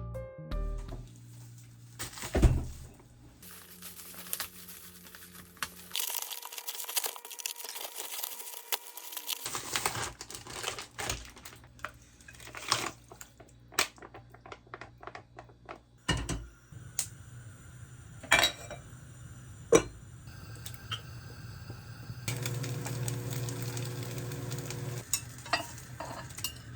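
Dishes and utensils clinking and clattering in a kitchen, a series of sharp knocks and taps, with a few seconds of hiss about six seconds in.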